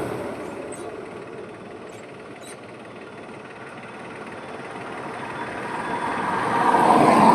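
Highway traffic: a passing vehicle fades away at the start, leaving a quieter stretch of road noise. Then another vehicle approaches and passes close by near the end.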